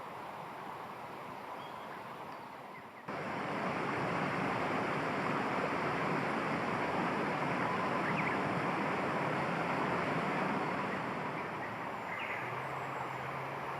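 Steady rushing outdoor noise that steps up abruptly in level about three seconds in, with a couple of faint short chirps over it.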